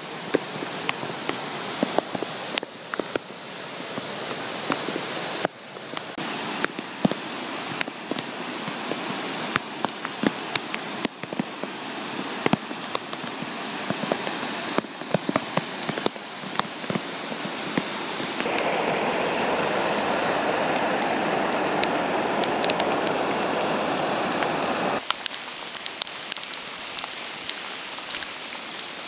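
Heavy rain with many sharp drops tapping close to the microphone over a steady rush of flood-swollen water. Past the middle, for several seconds, a louder, steadier rush of water alone, then the rain tapping again.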